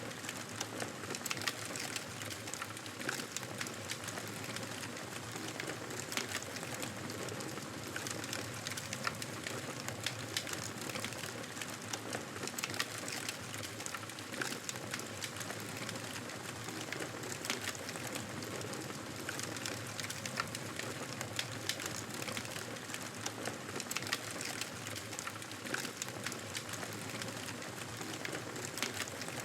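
Campfire burning with a steady hiss and frequent small crackles and pops.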